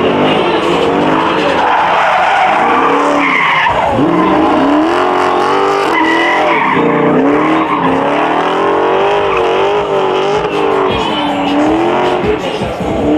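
A car doing a burnout in a pit, tyres squealing steadily while the engine revs rise and fall over and over.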